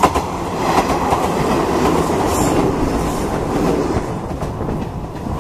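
Izuhakone Railway 7000 series electric train running past on the track, its wheels clattering over the rail joints; the noise eases a little near the end.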